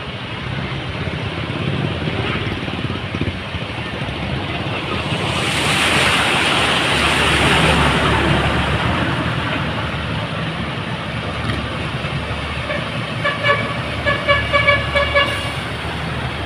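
Road traffic on a flooded city street, with a passing vehicle swelling loudest about halfway through, then a run of about six quick horn toots near the end.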